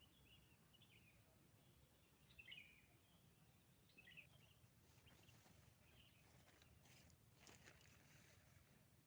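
Faint bird calls in quiet open-air surroundings: short chirps every second or two, with a few soft clicks about seven seconds in.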